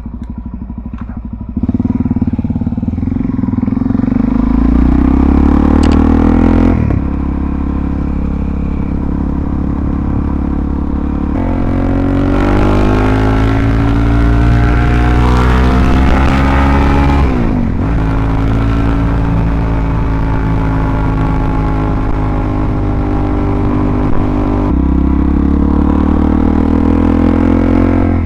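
Suzuki DR-Z400SM's single-cylinder four-stoke engine running through a full Yoshimura RS-2 exhaust as the bike is ridden. The engine note climbs under acceleration and drops at the gear changes, about seven and eighteen seconds in, then climbs again near the end.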